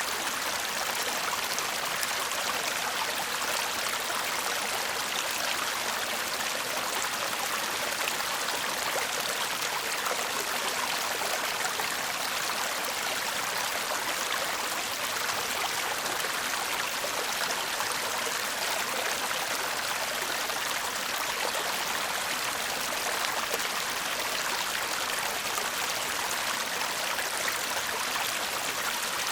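Small stream babbling and murmuring over stones, a steady, even rush of water.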